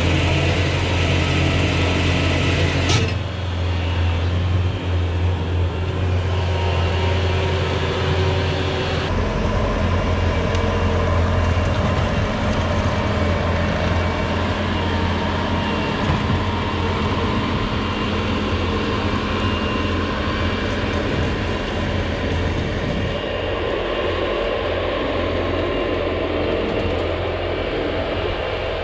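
Bobcat T595 skid-steer loader's diesel engine running steadily under work, with creaking and rattling from the machine and its snowblower attachment. A sharp click about three seconds in, after which the tone of the machine shifts, and it changes again later on.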